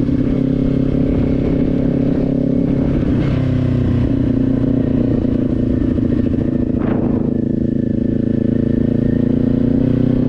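Kawasaki Z400's parallel-twin engine running at a steady cruise while riding, its pitch shifting slightly about three seconds in, with rough wind noise underneath.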